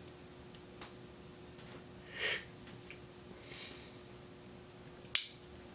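Quiet workbench sound over a faint steady hum: a short breath through the nose about two seconds in, a softer one a little later, then a single sharp click near the end.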